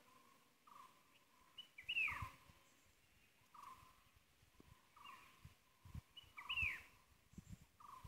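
Birds calling: two sharp chirps that sweep downward in pitch, about four and a half seconds apart, over a run of short lower notes repeated roughly once a second, with a few low thumps from the phone being handled.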